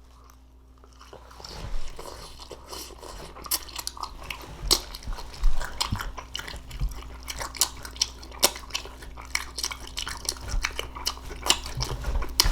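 Close-up chewing of tender cooked green beans: irregular wet mouth clicks and smacks that begin about a second in and keep coming.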